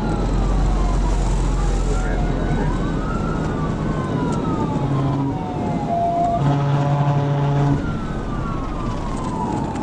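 Police cruiser siren on a slow wail, rising quickly and falling slowly about every three seconds, over the cruiser's steady engine and road rumble during a high-speed pursuit. A short steady blaring tone joins it for about a second near the end.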